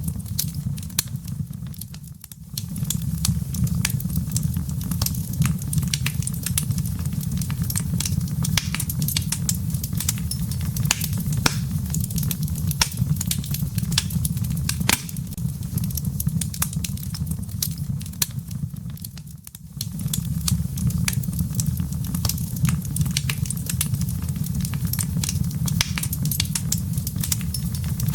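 Wood fire in a fireplace, crackling with frequent sharp pops over a steady low rumble. The sound drops away briefly twice, about two seconds in and again near twenty seconds.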